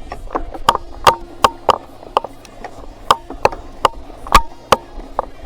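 Bicycle clattering over rough, overgrown ground: a run of sharp, irregular knocks and clicks, a few a second.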